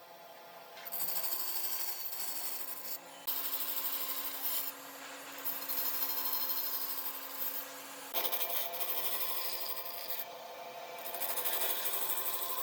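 Tools scraping and rubbing on wood, as in sanding or rasping a wooden piece, in a few short stretches that change suddenly. A faint steady hum runs under the middle stretch.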